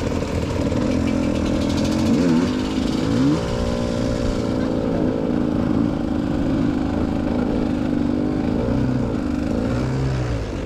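Dirt bike engine running steadily, its revs dipping and rising again a few times.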